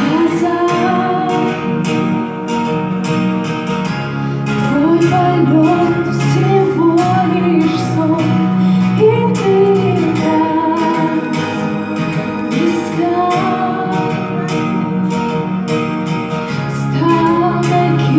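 A song: a woman's voice singing a melody over strummed acoustic guitar.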